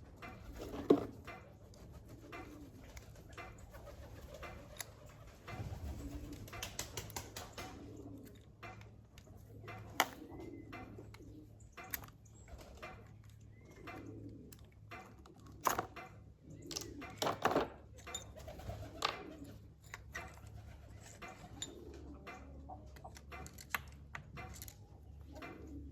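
A pigeon cooing over and over, with scattered sharp clicks and knocks throughout; the loudest click comes about a second in.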